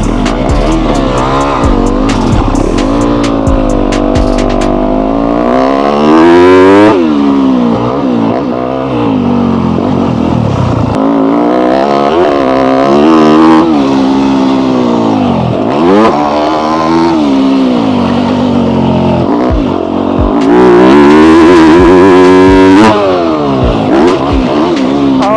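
Yamaha YZ250F four-stroke single-cylinder dirt bike engine revving up and down over and over as it is ridden around a motocross track, pitch climbing under throttle and dropping off between bursts. Twice a loud rushing noise, about six seconds in and again near the end, briefly covers the engine.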